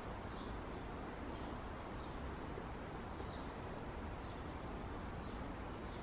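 Distant songbirds giving faint, short, high chirps about once or twice a second, over a steady low background hiss and rumble.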